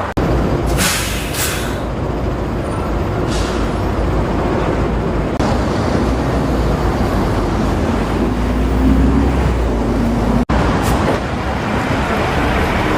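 Steady rumble of a motor vehicle's engine, with a few short hisses. The sound cuts out abruptly twice.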